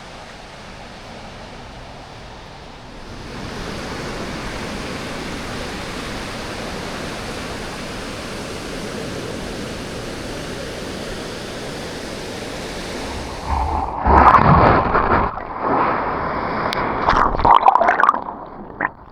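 Steady rush of ocean surf washing onto a beach, growing louder about three and a half seconds in. About thirteen seconds in the sound turns muffled, with loud, irregular sloshing and gurgling of water as the microphone goes underwater.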